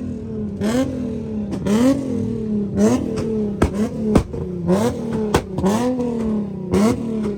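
Car engine revved over and over, about once a second, each rev rising sharply and then easing back, with sharp exhaust pops and cracks between the revs.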